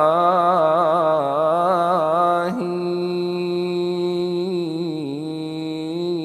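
A man's chanting voice holding one long wordless tone, wavering in vibrato for the first couple of seconds, then holding steadier and a little quieter.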